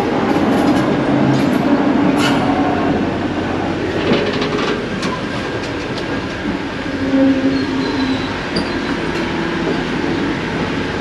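Diesel-hauled local passenger train rolling slowly over the track as it runs into a station, heard from on board: a steady rumble of wheels on rail with scattered clicks and knocks over the rail joints.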